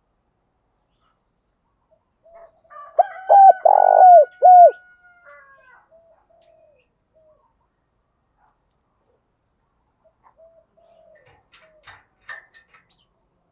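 Spotted dove cooing: a loud run of four short coos about three seconds in, with fainter coos around them. A few faint ticks come near the end.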